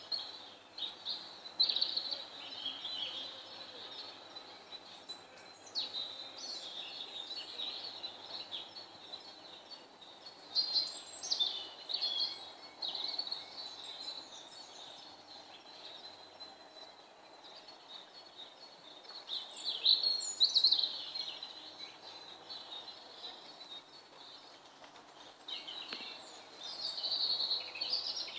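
Wild birds singing and chirping in repeated bursts of high, quick phrases, over a steady low background noise.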